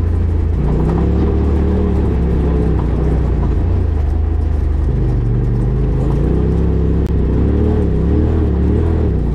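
Rally car engine pulling hard, its pitch climbing and dropping several times as the driver works the throttle and gears, over a steady low rumble of tyres on a rough dirt track.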